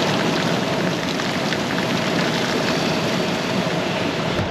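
Heavy rain falling on a car's roof and windshield, heard from inside the cabin as a steady dense patter.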